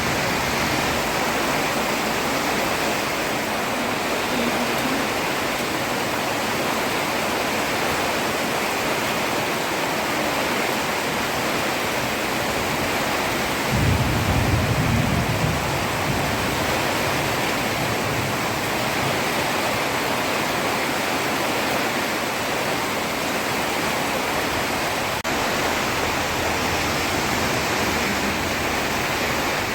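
Heavy rain falling steadily on a road, a dense even hiss. About halfway through, a low rumble swells up for a second or two and fades.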